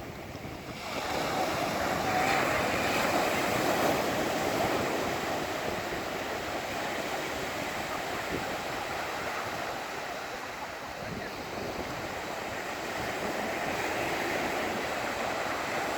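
Surf washing on the shore, a steady rushing wash that swells about a second in, with wind on the microphone.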